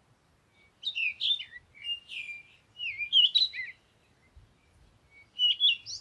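Small songbird chirping in four short phrases of quick, gliding, twittering notes.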